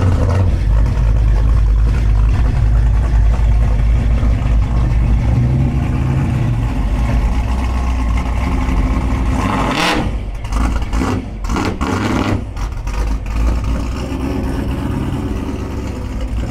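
A vehicle engine running close by with a deep, steady rumble. About ten seconds in there is a rush of noise, followed by a few seconds of clattering knocks.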